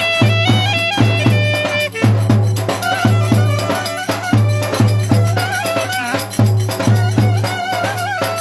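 Lively folk dance music: a heavy drum beat about twice a second under a fast, ornamented melody line.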